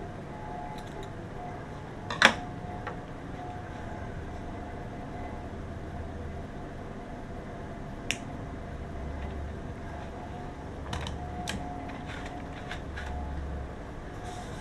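Steady background hum with a few sharp clicks or taps. The loudest click comes about two seconds in, a lighter one about eight seconds in, and a quick run of small clicks near the end.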